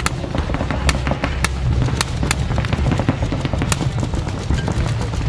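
Paintball markers firing during a tournament game: sharp, irregular pops, a few every second, over a low rumble.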